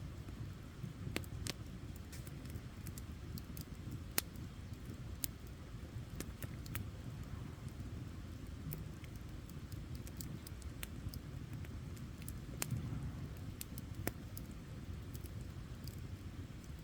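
Wood campfire burning, crackling with irregular sharp pops and snaps over a low steady rumble.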